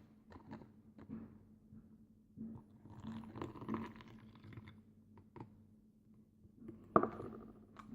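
Quiet handling sounds of slime-making: an ingredient poured into a bowl of glue mixture in one go, with scattered small clicks of a container and a soft wet stretch in the middle, and one sharp tap about seven seconds in.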